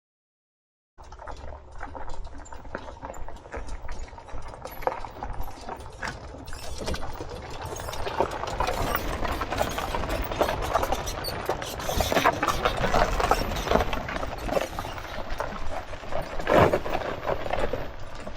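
Quad bike engine running, with irregular knocks and rattles all through, starting about a second in and growing louder in the second half.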